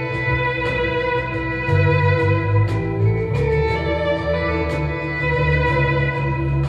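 A live band playing instrumental music: a sustained bowed-string melody, likely violin, over a heavy bass, with sharp drum or cymbal hits at intervals.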